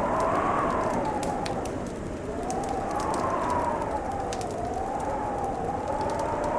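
A crackling wood fire with scattered sharp pops, over a steady rushing wind whose howl slowly rises and falls in pitch, as in a blizzard.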